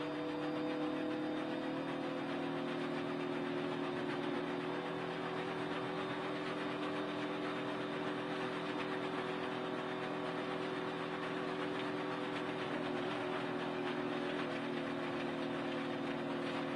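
NASCAR Cup stock car's V8 engine heard from inside the cockpit, running at a steady, nearly constant pitch with a dense mechanical and road-noise roar. The pitch sags slightly about two-thirds of the way through.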